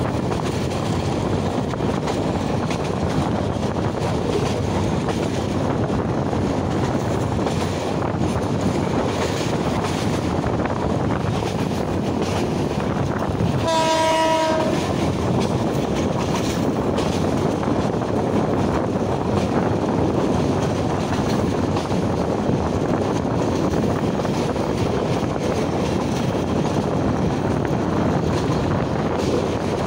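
Passenger train running, heard from inside a carriage: a steady rumble of wheels on rails mixed with the rush of air through the open window. About halfway through, the train's horn blows once, a single pitched blast with many overtones lasting about a second and a half.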